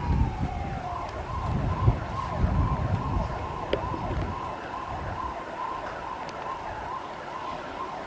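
A steady siren-like tone that pulses slightly and holds one pitch, with a short falling glide near the start. Low rumbles are heard over it during the first four seconds.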